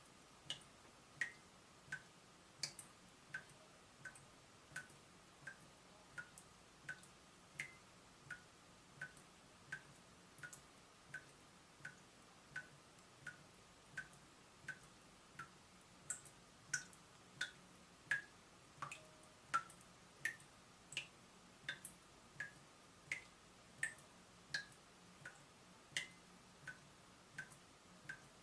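Water dripping from a leaking tap at a steady pace, about three drops every two seconds, each a short plink, some louder and higher than others.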